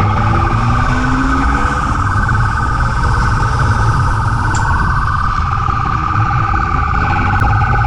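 Police car running at high speed in a pursuit: engine and road rumble with a steady wavering siren tone over it.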